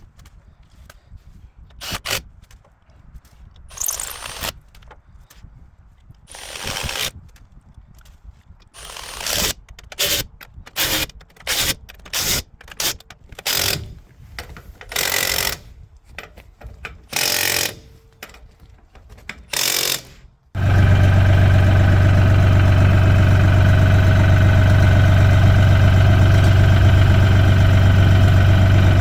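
A power tool run in a dozen or so short bursts of under a second each. About two-thirds of the way through, a compact tractor's diesel engine comes in abruptly and runs steadily with a strong low hum, louder than the bursts.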